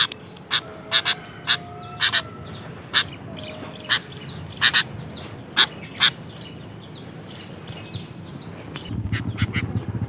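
Short, sharp bird calls, about a dozen at irregular intervals, over a steady high-pitched whine. About nine seconds in the whine stops and a low wind rumble comes in.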